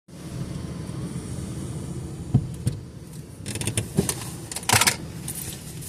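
Steady low rumble of a car's cabin on the move, with a few sharp clicks and short rustling bursts about halfway through.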